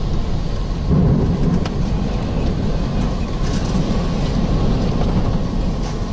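Low, steady rumble of a vehicle running in a severe storm, with a louder swell about a second in.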